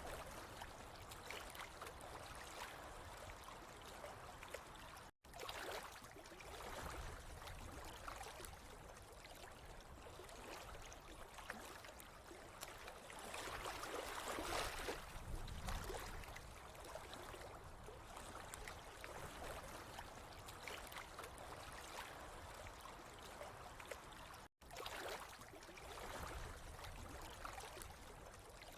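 Steady, faint trickling and flowing water with no tones, swelling a little louder about halfway through. The sound drops out to silence for an instant twice.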